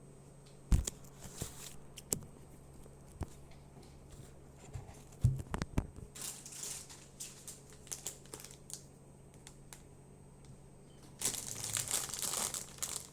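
Chips and their bag being handled and crunched: scattered sharp knocks and crunches, and two spells of crinkling, the louder one near the end.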